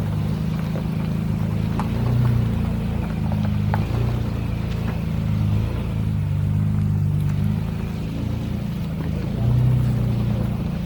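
Toyota Tacoma pickup's engine running at low speed as it crawls a rocky, muddy off-road trail, the throttle easing on and off so the engine note rises and falls several times, with a few light knocks.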